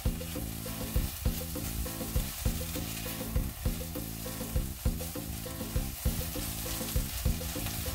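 Nopales frying with garlic and onion in a pot, a steady sizzle. Background music with a steady beat plays under it.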